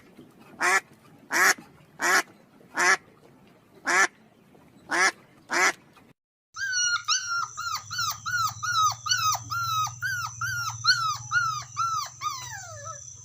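A dog barking eight times in an even rhythm. After a sudden cut about six seconds in, a different animal gives a fast run of short calls, each falling in pitch, about three a second, sinking lower toward the end.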